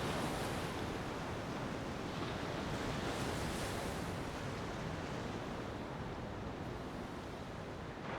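Ocean surf washing onto a beach in a steady hiss, swelling slightly about three seconds in and slowly fading toward the end.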